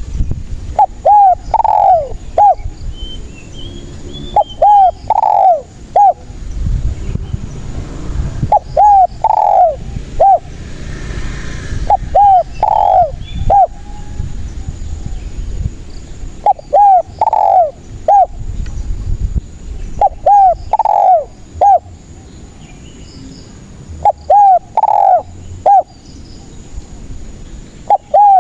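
Spotted dove (tekukur) singing its cooing song. Each phrase is three or four short, loud coos, and the phrase repeats about every four seconds, seven times in all.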